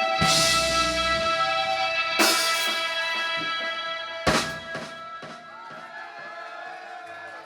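A rock band's closing chord held and ringing, punctuated by three cymbal-and-drum crashes about two seconds apart, then dying away.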